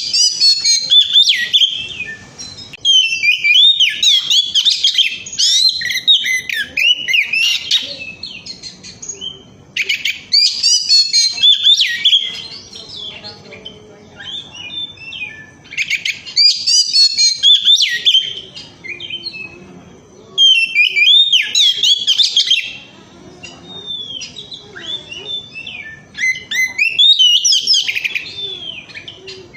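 Oriental magpie-robin (kacer) in full song: rapid, varied whistled phrases, loud and sustained, delivered in bursts of a few seconds with short pauses between them.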